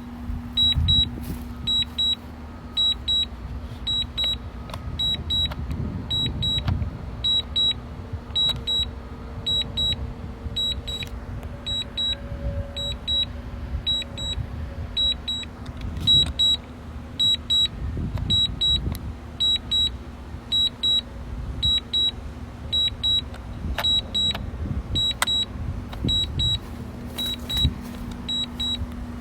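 Drone remote controller sounding its alert: a high double beep repeating steadily, about one pair every three quarters of a second, while the drone is landing. A low, uneven rumbling noise runs underneath.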